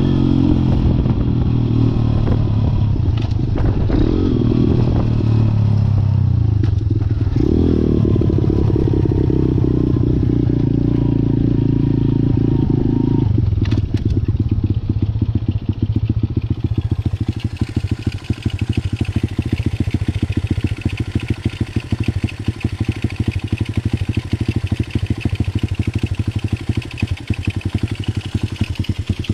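Malcor XZ1 125cc pit bike's single-cylinder engine running and revving, its pitch rising and falling several times; about halfway through it drops to a steady, lumpy idle.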